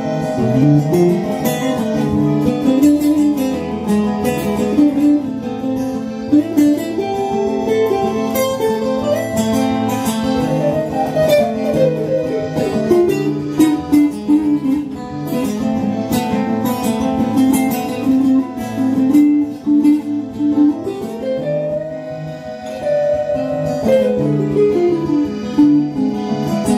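Instrumental break in a song: guitars playing chords with a lead melody line that slides up and down between notes.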